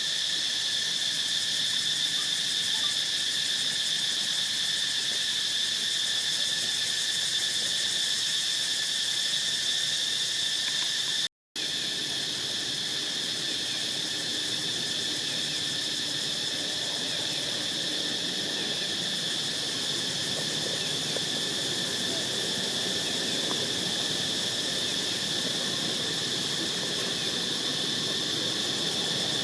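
Steady high-pitched insect chorus, continuous apart from a brief break about eleven seconds in.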